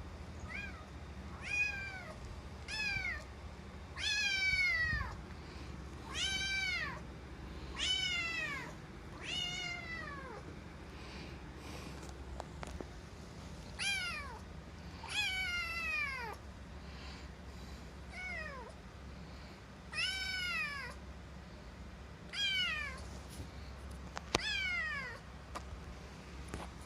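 Orange-and-white kitten meowing over and over, more than a dozen high cries that each fall in pitch, one every second or two with a short pause in the middle: a caged kitten crying to be let out.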